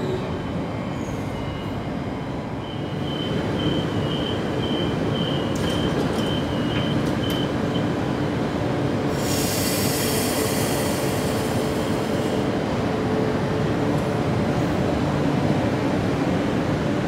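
Queensland Rail train running through the station with a steady rumble. A high wheel squeal sounds for about five seconds, then a loud hiss about nine seconds in lasts about three seconds.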